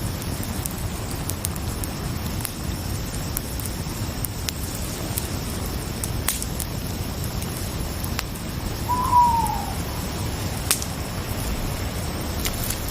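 Night-time forest soundscape: a steady bed of noise with scattered sharp crackles, like a wood fire, under a faint steady high chirring of crickets. About nine seconds in, a single short call falls in pitch and stands out above the rest.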